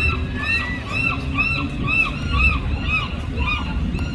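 Gull calling in a fast series of short, arched, honking notes, about two to three a second, over a low background rumble.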